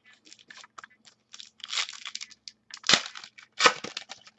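A foil trading-card pack wrapper being torn open and crinkled, in a string of short crackles with a few louder crinkles in the second half.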